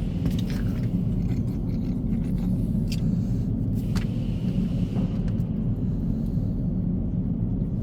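Semi truck's diesel engine idling: a steady low rumble, with a few faint clicks about three and four seconds in.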